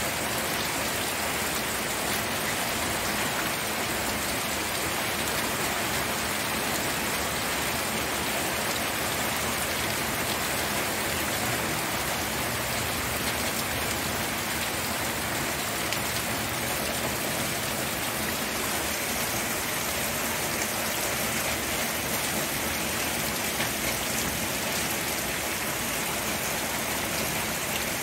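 Steady rain falling, a dense, even hiss of drops hitting a surface, without let-up.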